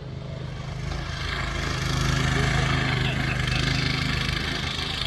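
An engine running steadily, growing louder over the first couple of seconds.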